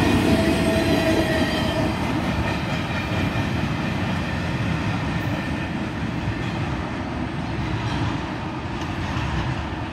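Tail end of a freight train rolling past, wheels clattering on the rails with a brief squeal at the start, then the rumble slowly fading as the last car moves away.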